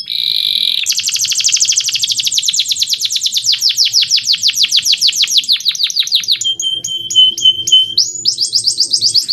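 Male canary singing: a short buzzy note, then a long, fast trill of downward-swept notes at about nine a second. Shorter repeated phrases follow, and another fast trill near the end breaks off suddenly.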